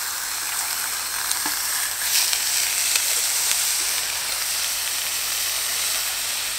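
Burgers frying in hot oil in a stainless steel pan, a steady high sizzle with a few light taps and scrapes of a metal spatula. The sizzle brightens about two seconds in as the burgers are moved in the pan.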